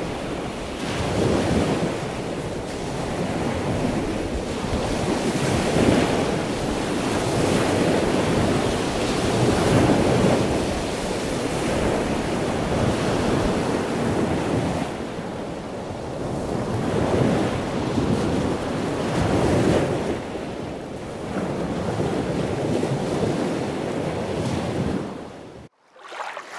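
Ocean surf: a steady rushing of waves that swells and ebbs every few seconds, cutting off suddenly near the end.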